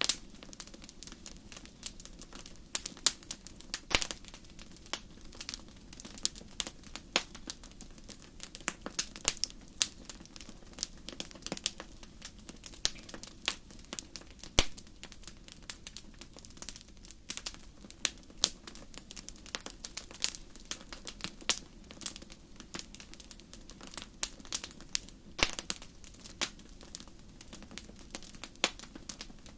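Fireplace fire crackling: many irregular sharp pops and snaps, some louder than others, over a soft steady background.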